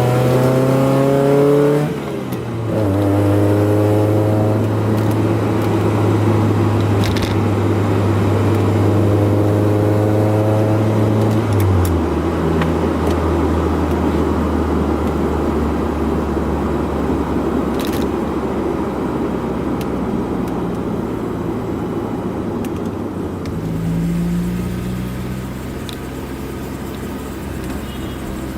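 Honda F22B1 2.2-litre VTEC four-cylinder engine pulling up through the revs with a rising pitch. It drops back at a gear change about two seconds in, climbs again, then settles into a steady drone while cruising. The pitch drops again about twelve seconds in and rises briefly near the end.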